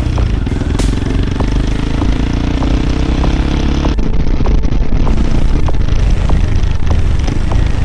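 Royal Enfield Himalayan 450's single-cylinder engine running through an aftermarket PoweRage performance exhaust, loud and steady, with the note changing about four seconds in.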